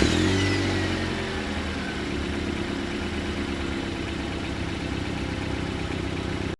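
A vehicle engine coming down off a rev and settling into a steady idle. It cuts off abruptly near the end.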